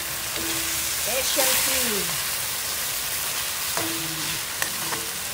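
Pork hocks with mushrooms and banana blossoms sizzling in a hot pan as they are stirred, with a few light clicks near the end.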